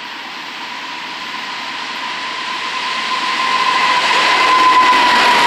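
Norfolk Southern freight train's diesel locomotives approaching and coming alongside, their engine noise growing steadily louder. A steady whine runs through it and drops slightly in pitch as the lead locomotive goes by.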